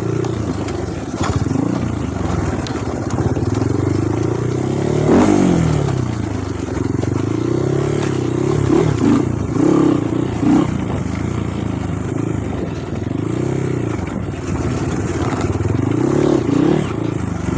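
Off-road trail motorcycle engine being ridden, revving up and down over and over as the throttle is worked, its pitch rising and falling every second or two, with a sharp rev about five seconds in.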